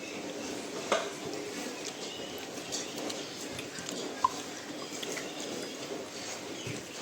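Eating at a plate: food being handled, with two sharp clinks against the plate, about a second in and a little past four seconds.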